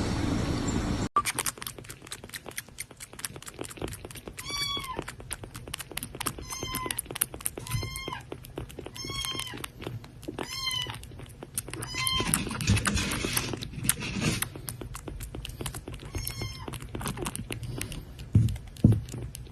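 Cat meowing repeatedly: about eight short, high, arching meows a second or two apart, over a steady patter of small clicks and rustling. A steady rumble plays for the first second before cutting off suddenly.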